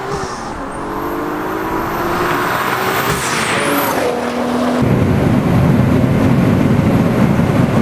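Turbocharged 3.2-litre VR6 of a VW Golf Mk4 R32 accelerating hard, rising in pitch and getting louder as it approaches and passes. About five seconds in it gives way to the louder engine and road noise heard inside the car at speed.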